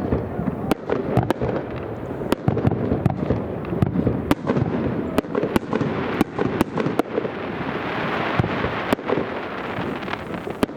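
Aerial fireworks shells bursting in quick succession: many sharp bangs over a continuous rumble, with a denser hissing stretch about eight seconds in.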